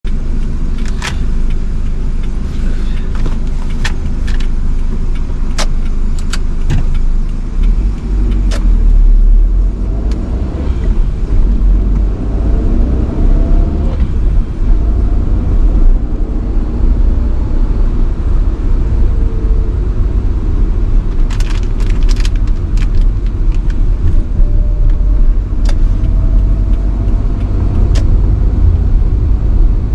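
1985 Nissan Sunny B12 driving, a heavy steady rumble of engine and road. The engine note rises as it accelerates, with scattered sharp clicks and rattles.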